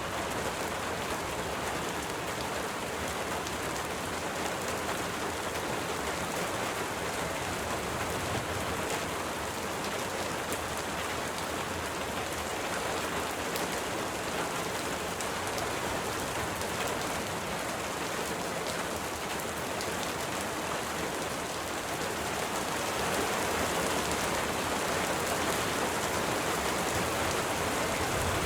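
Steady rain falling, with scattered individual drops ticking through it; it grows slightly heavier about two-thirds of the way in.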